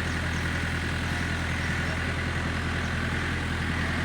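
A vehicle engine idling, a steady low drone with a hiss above it that does not change.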